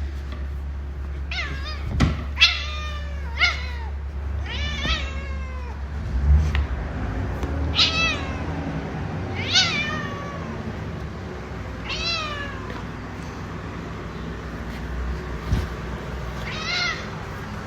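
A domestic cat meowing repeatedly, about eight separate meows, each falling in pitch, with a steady low hum underneath.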